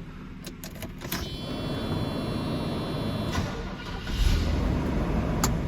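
Mercedes-Benz 560SL's 5.6-litre V8 cold-started after sitting three days: a few clicks from the key, the starter cranking with a high whine for about two seconds, then the engine catches about four seconds in and settles into a steady fast idle.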